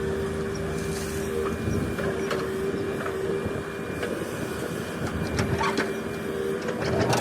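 Heavy diesel engine running steadily with a constant whine over it, and scattered clicks and knocks.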